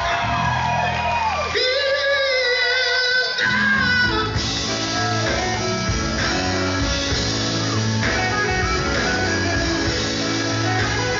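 Gospel group performing with voices, electric guitar and bass guitar. A voice holds a long wavering note between about one and three and a half seconds in, then the band plays on.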